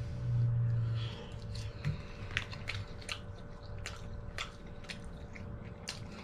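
People chewing soft macaroni and cheese, with wet lip smacks and mouth clicks. A low hum runs through the first second.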